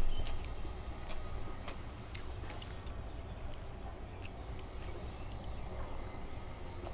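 Close-miked chewing and mouth sounds of someone eating chicken biryani, with scattered small sharp clicks and a louder knock right at the start.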